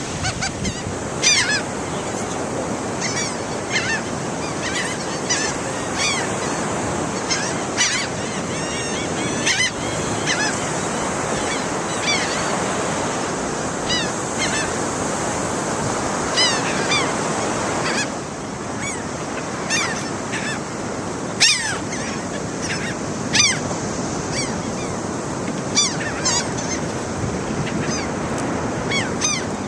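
Gulls calling again and again, many short harsh cries one after another, over a steady background of surf.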